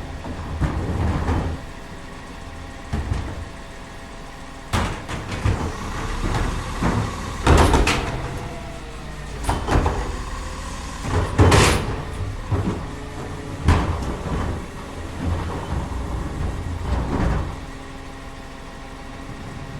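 Garbage truck engine running steadily while trash is loaded, with a series of loud bangs and clunks, the loudest a little before halfway and again just past halfway.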